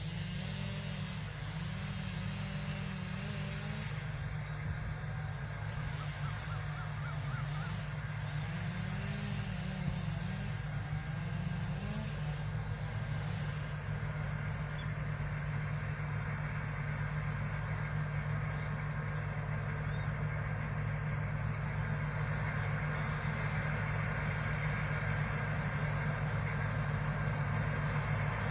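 Combine harvester engine running steadily at working speed with a low hum, growing gradually louder through the second half.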